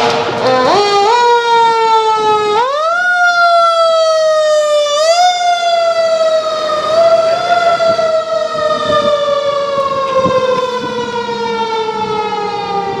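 Fire apparatus siren. Its pitch rises in several pushes over the first five seconds, then winds slowly down over the next eight.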